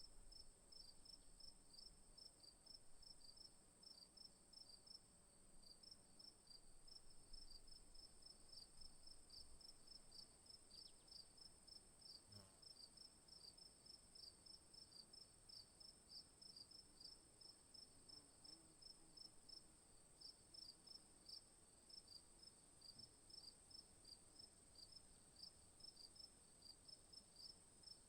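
Faint insect chorus: a steady high-pitched drone with short chirps repeating a few times a second above it.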